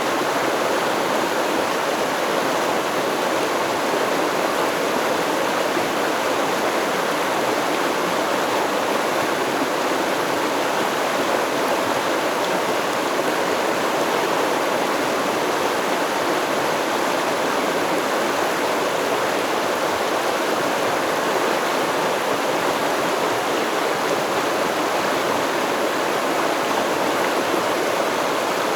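A stream flowing over rocks, a steady rushing and babbling of water with no change in level.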